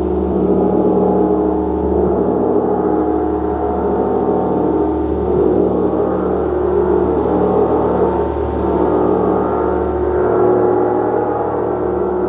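A gong played as a continuous wash, its dense, layered ringing held without distinct strikes and swelling and fading slowly.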